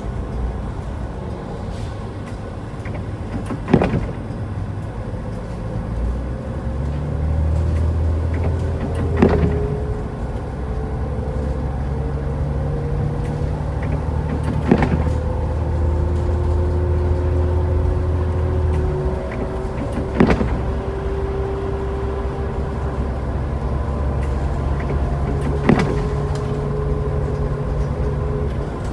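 Car driving, with a steady low engine and road hum whose pitch drifts slowly. A short sharp knock comes about every five and a half seconds.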